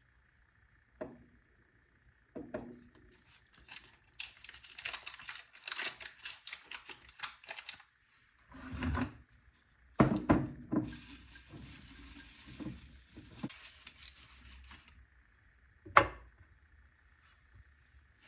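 Kitchen clatter: scattered knocks of cookware, the loudest near the end, and two long stretches of dense crackling noise. A faint steady high whine runs underneath.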